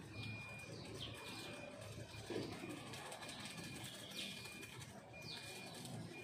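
Birds calling. A high, steady whistle repeats about once a second, each followed by a quick falling note, and a low dove-like coo comes about two seconds in.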